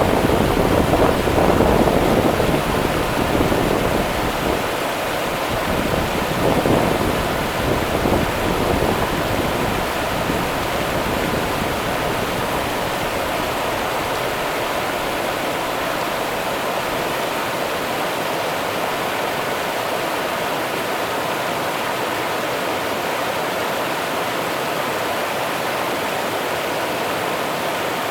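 Rio Grande river water running with a steady, continuous rush. Over the first several seconds there is an extra, uneven low rumble that then settles.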